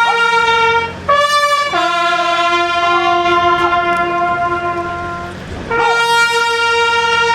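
Military bugle sounding a slow ceremonial call in long held notes: a middle note, a brief higher note, a long low note, then the middle note again.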